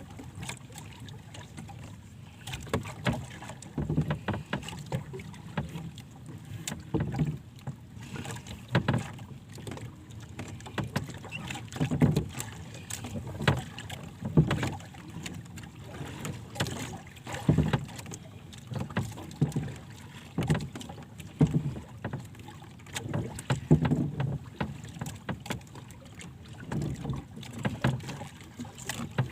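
Water slapping and knocking against the hull of a small boat in irregular strokes every second or two, over a steady wash of water and wind.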